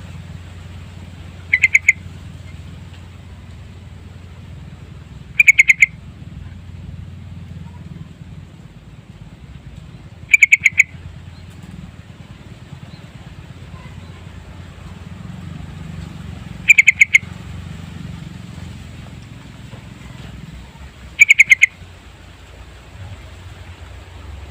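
Sooty-headed bulbul (trucukan) singing short, bubbly phrases of quick notes, five times, a few seconds apart.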